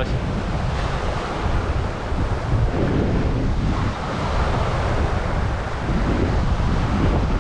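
Strong wind buffeting the microphone with a heavy low rumble, over the wash of sea waves breaking on the shore.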